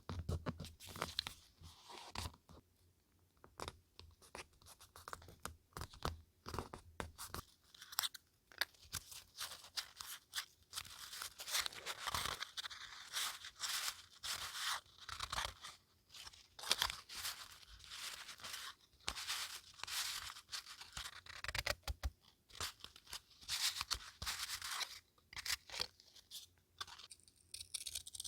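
Paper being handled: close-up crinkling and rustling with short tearing sounds, many in quick succession.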